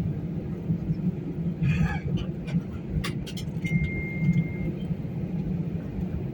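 Steady low rumble inside an airliner cabin on the ground just after landing, with a few small clicks and a short high beep about halfway through.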